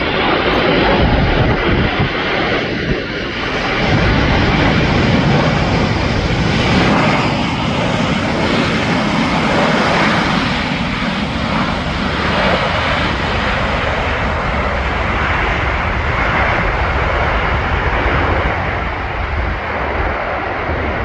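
Jet engines of a four-engine Boeing 747-400 running at high power as the aircraft passes: a loud, steady jet noise that swells about four seconds in and then eases slightly.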